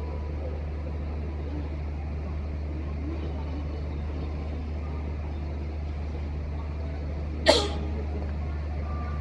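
Diesel locomotive running steadily at idle, with one short sharp hiss of released air about seven and a half seconds in.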